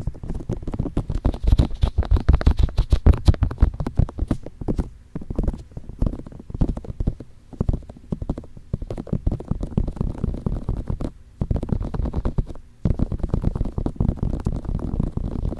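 Fingertips tapping and rubbing on microphone ears: a dense, rapid run of soft low thuds and scratchy rubs close to the microphone, broken by two short pauses about three-quarters of the way through.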